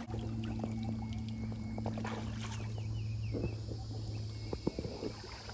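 Short, repeated falling bird chirps over a steady low hum, with a few sharp knocks near the end, such as a paddle striking a kayak.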